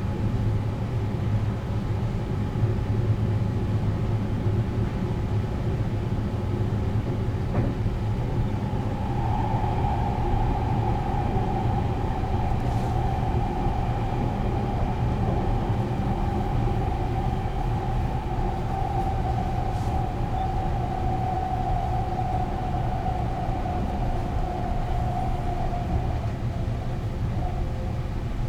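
Running noise of the 285 series Sunrise Express sleeper train, heard from inside the car: a steady low rumble of wheels on rail. About a third of the way in a steady mid-pitched whine joins it, fading away near the end.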